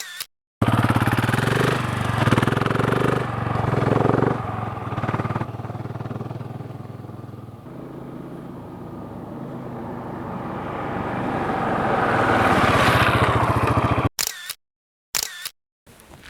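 Husqvarna 701 single-cylinder motorcycle engine running. It fades through the middle and grows louder again toward the end, then cuts off abruptly.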